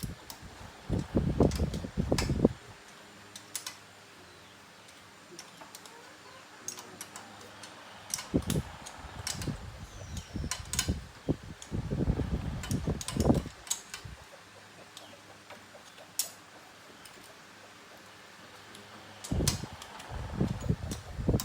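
Hand tools and metal motorbike parts clinking and knocking in irregular clusters of clicks and clatter, with a faint steady hum in the quieter stretches between.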